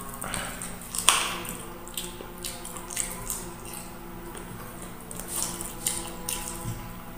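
Close-up wet chewing and lip smacking: a person eating a mouthful of rice and chicken-feet adobo by hand, with irregular squishy smacks and clicks.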